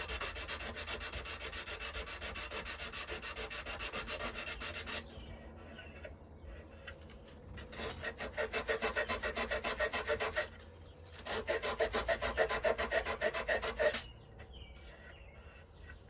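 Sandpaper being worked by hand on a knife in fast, even back-and-forth strokes. It comes in three bouts with short pauses between them, stopping about two seconds before the end.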